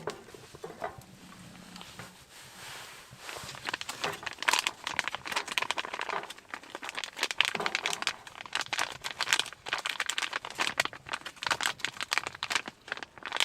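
Crinkling and rustling of handled material: a few scattered crackles at first, then dense and continuous from about three seconds in until just before the end.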